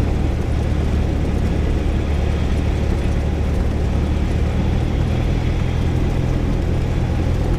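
Single-engine Cessna's piston engine and propeller running steadily on final approach, heard from inside the cockpit as a constant low drone.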